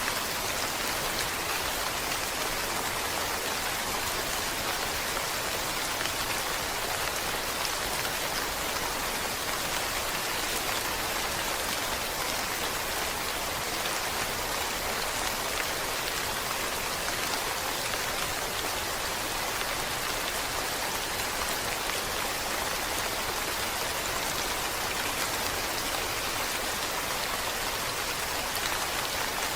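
Steady rain falling, a continuous even hiss of many drops on a surface with no change in strength.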